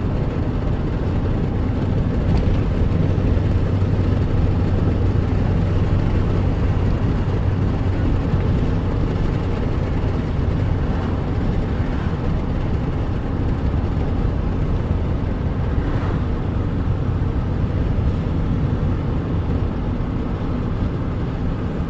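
Steady engine hum and road noise inside a moving car's cabin.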